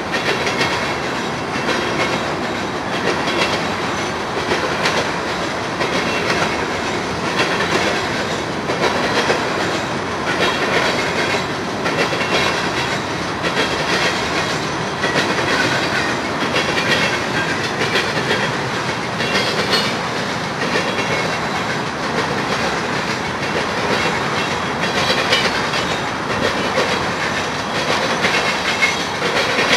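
Union Pacific mixed freight train's cars, covered hoppers and boxcars, rolling past steadily, with the wheels clicking over rail joints.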